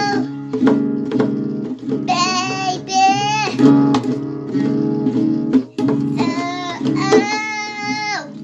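A child singing an improvised song in long held notes over steady strummed guitar chords; the singing pauses near the middle while the guitar carries on.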